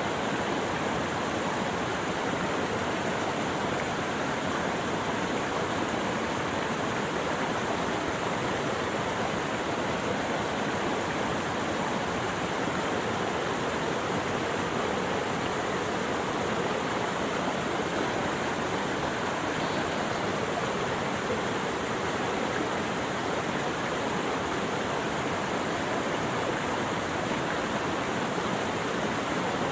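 Running water: a steady, unchanging rush with no breaks or separate events.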